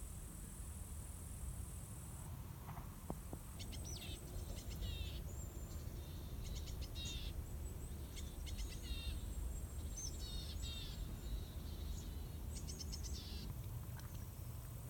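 A small songbird calling in short bursts of quick, high, repeated chirps, several bursts spread over about ten seconds, over a low steady outdoor background noise.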